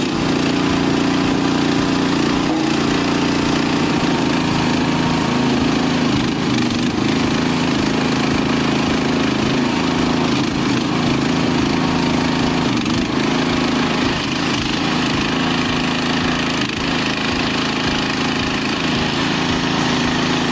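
Small engine on a homemade vertical log splitter running steadily at an even speed.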